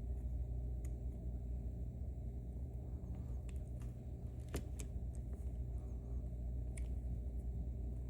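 Steady low hum with a few faint, sharp clicks, a second or so apart at most, of metal picking tools working the pins of a Mauer NW4 dimple lock.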